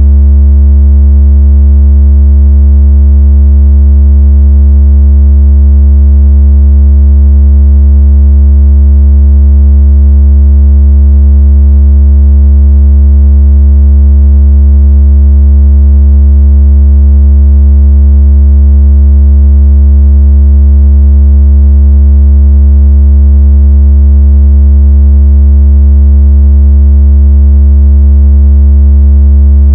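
A synthetic deep bass tone, very loud and unchanging, with a faint buzz of overtones above it. It is a speaker-vibration tone used to shake water out of a phone speaker and to make the phone vibrate.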